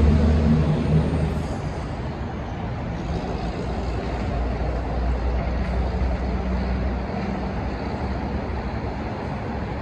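Passenger train running at the station platform: a low rumble with a hum that is loudest at the start and fades over the first couple of seconds, then a steady rumble and noise.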